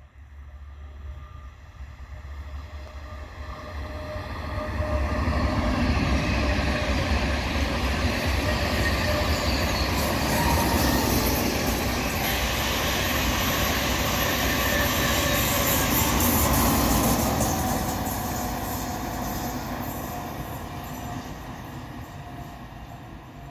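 ICE high-speed electric train passing at speed. The rush of wheels and air builds as it approaches, stays loud for about twelve seconds while the carriages go by, then fades as it recedes.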